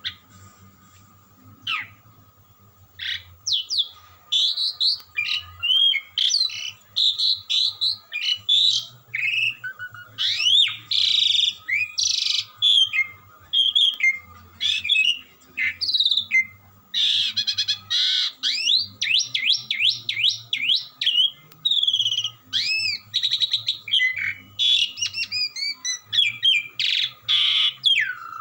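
Asian pied starling (jalak suren) singing a long, varied song of whistled glides mixed with harsh chattering notes, almost without pause, starting about two seconds in.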